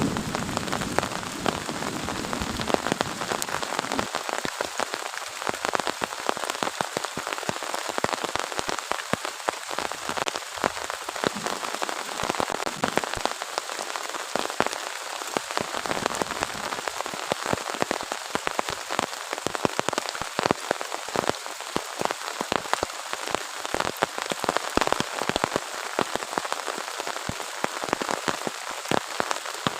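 Heavy rain falling, a dense patter of individual drops hitting surfaces. A low thunder rumble dies away in the first few seconds.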